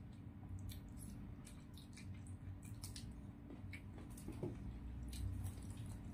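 Eating sounds of spicy chicken feet being chewed: a scatter of short wet mouth clicks and smacks, over a steady low hum.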